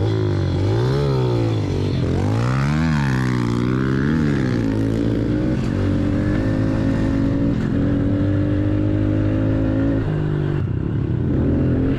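Dirt bike engine revving up and down several times in the first few seconds, then running at a steady speed before easing off near the end.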